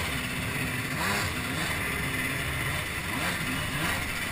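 Jet ski engine running, its pitch rising and falling repeatedly as the throttle is worked, over a steady hiss.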